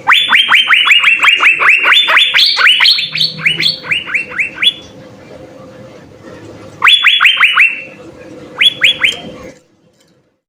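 Asian fairy-bluebird (cucak biru) calling: a rapid run of sharp whistled notes, each sliding down in pitch, about six a second for nearly five seconds, followed by two shorter runs. The sound cuts off suddenly near the end.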